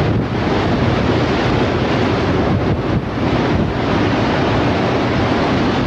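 Strong storm wind blowing hard across the camera's microphone: a loud, steady rushing noise.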